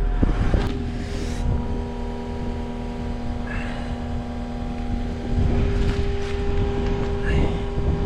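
Cat 906 wheel loader's diesel engine running steadily: a low hum with a few held tones. It gets slightly louder about five seconds in.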